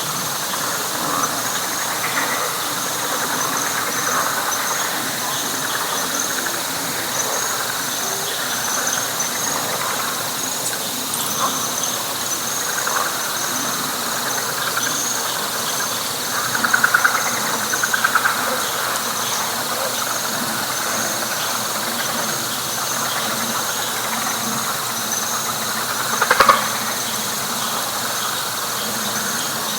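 Night chorus of frogs: a dense mass of overlapping calls beneath a steady, high, pulsing trill. About halfway through, two louder pulsed calls stand out, and near the end there is one sharper, louder call.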